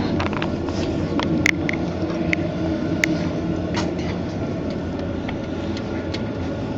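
A steady low rumble runs throughout, with a few separate light clicks and knocks about a second apart.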